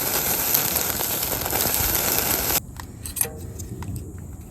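Meat sizzling and crackling on a barbecue grill, a dense hiss that cuts off abruptly a little over halfway through, leaving a quieter background with a few light clicks.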